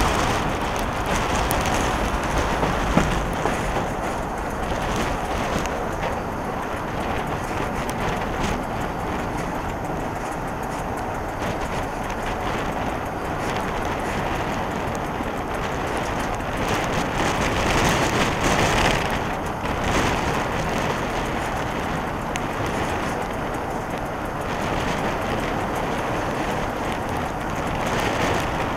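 Passenger train running on the rails, heard from an open carriage window: a steady rumble of wheels and rail noise mixed with wind on the microphone, with scattered light knocks and a brief louder swell about two-thirds of the way through.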